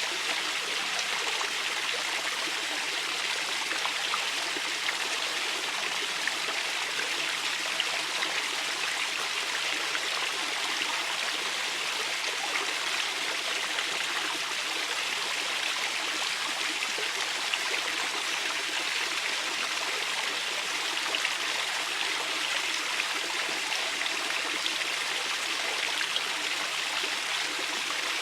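Shallow river water running over stones: a steady, even rushing with faint small splashes through it.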